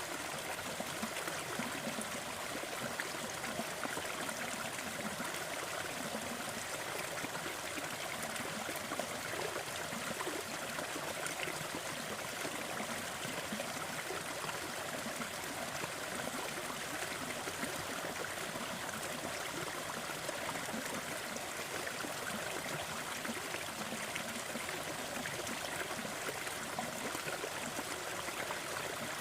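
Steady rushing noise with faint scattered crackles, from a sleep soundscape of a crackling fireplace mixed with brown noise.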